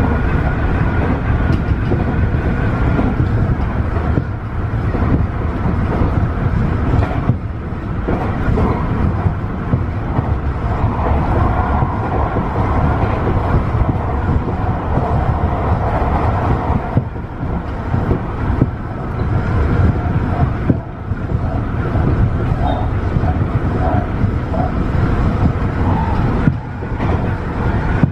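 Tobu 50090-series electric train running, a steady rumble of wheels and running gear on the rails heard from inside the train.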